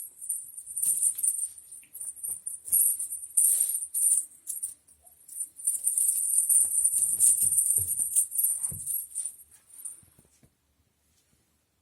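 Small bells on a cat toy jingling in irregular shaken bursts as cats play with it, with a few soft thumps near the end; the jingling stops about ten seconds in.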